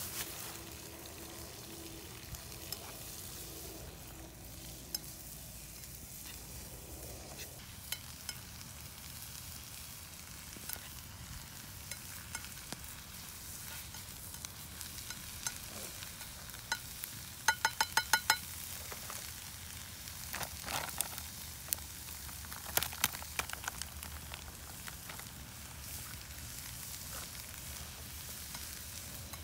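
Food frying in a pan over a campfire, sizzling steadily while a utensil stirs it, with scattered small clicks. About halfway through, a quick run of about five sharp metallic clinks.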